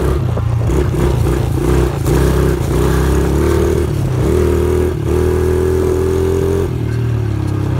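Dirt bike engine running while being ridden, its revs rising and falling with the throttle, then easing to a lower, steadier note near the end.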